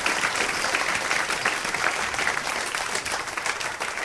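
Audience applauding, many hands clapping in a dense steady patter, cut off abruptly at the end.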